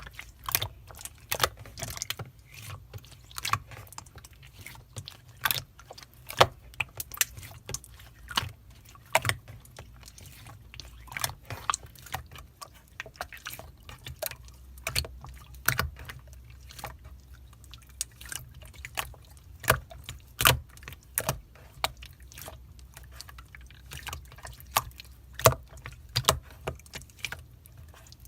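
Slime being squeezed and pressed by hand, making irregular wet, sticky clicks and pops, a few a second.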